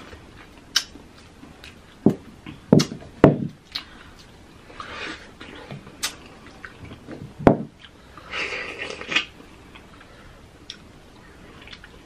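Close-miked eating sounds: chewing and mouth sounds of fresh mango, pineapple and whipped cream, with sharp clicks every second or two, the loudest about three seconds in and again about seven and a half seconds in.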